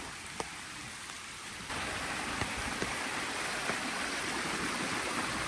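Steady rain and running water, with a few sharp drop ticks at first; about a second and a half in, a louder, steady rush of water comes in suddenly and holds.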